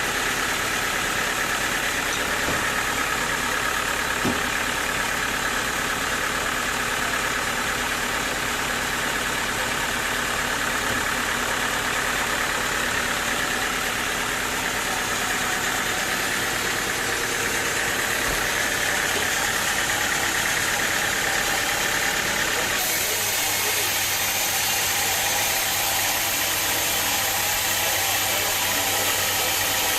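Sawmill machinery running steadily, an engine-like drone with a wavering higher whine; the sound shifts abruptly about three-quarters of the way through.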